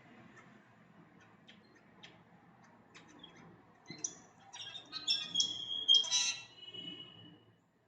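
Bird singing: a quick run of high chirps about four seconds in, then a held whistled note and a few falling notes, over faint scattered clicks.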